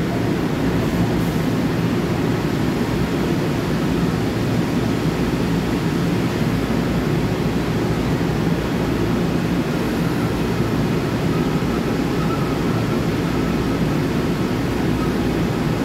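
Long Island Rail Road M9 electric train standing at the platform, giving a steady low rushing hum.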